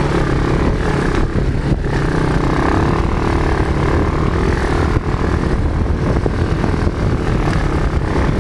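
Quad bike engine running steadily, a continuous loud drone.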